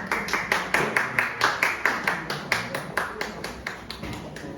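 A small audience applauding in an even rhythm of about five claps a second, dying away near the end.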